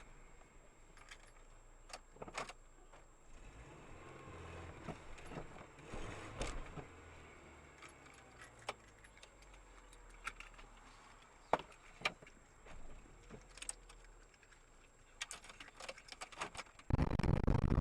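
Scattered clicks, knocks and rattles over a faint low vehicle rumble, as heard inside a car on a dashcam recording. Near the end the sound jumps abruptly to a much louder, dense rumble of a vehicle or road noise.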